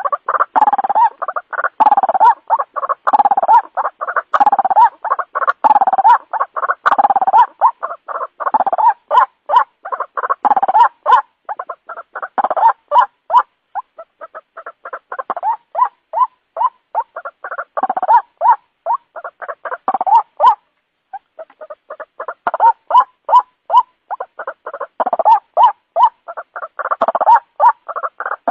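White-breasted waterhen calling: a fast, unbroken string of repeated 'ruak-ruak' notes, several a second, with a brief pause about three-quarters of the way through.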